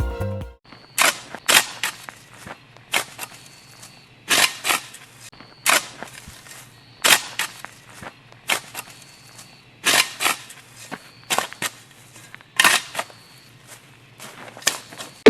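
A series of sharp taps or knocks on a hard surface, roughly one a second at uneven spacing, with a faint high steady tone between some of them.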